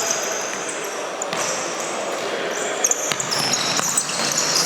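Futsal game sounds echoing in a sports hall: the ball being kicked and bouncing on the court, with short high squeaks of indoor shoes on the floor. A couple of sharp knocks just before three seconds in are the loudest moments.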